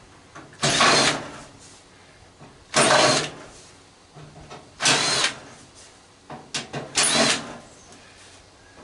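Cordless drill-driver whirring in four short bursts about two seconds apart as it backs screws out of sheet metal.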